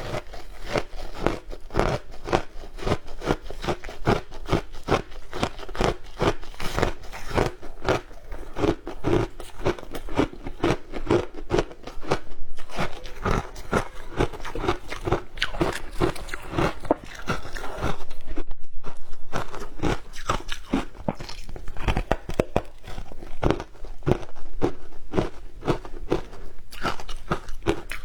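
Close-up crunching of a person biting and chewing frozen shaved ice: a dense, irregular run of sharp crackling crunches, with a louder, steadier stretch about eighteen seconds in.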